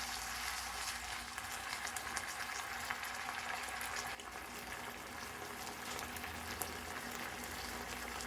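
Chicken pieces and onion frying in teriyaki sauce in a nonstick pan, a steady sizzle with fine crackles as the sauce cooks down and thickens. It drops a little in level about four seconds in.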